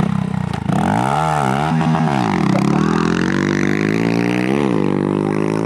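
Pit bike engines revving hard, the pitch swinging up and down twice in the first couple of seconds, then climbing again and holding high as the bikes accelerate.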